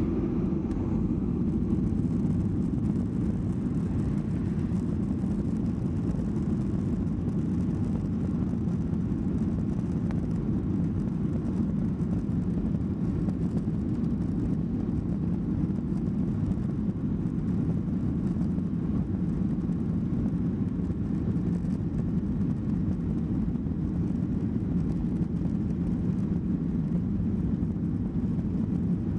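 Steady cabin noise of a Boeing 737-800 in flight: an even, low rush of airflow and engine noise that does not change.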